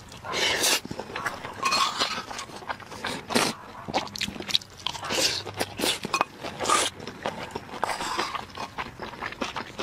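Close-up mouth sounds of eating fried rice and noodles: chewing and crunching, made up of many small clicks. Louder bursts come about half a second in, around five seconds and just before seven seconds.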